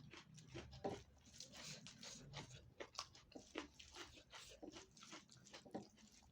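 Close-miked eating: a person chewing a mouthful of food, with a run of short, irregular wet mouth clicks, several a second.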